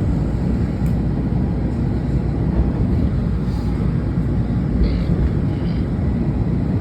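Washington Metro railcar running, a steady low rumble of wheels and motors heard from inside the car as it moves onto the center track, with a few faint clicks.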